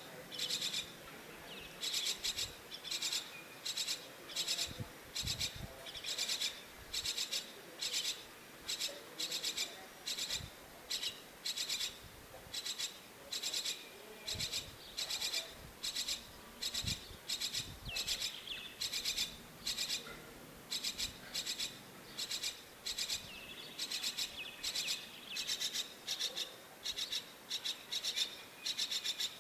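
Myna chick giving harsh, raspy begging calls in a steady series, about two a second.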